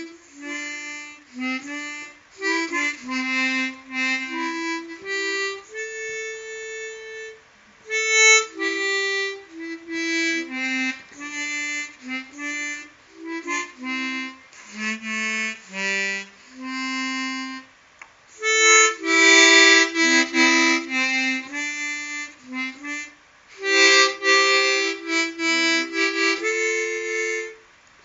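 Solo harmonica playing a slow melody of held single notes, with louder stretches of two-note chords twice in the latter half.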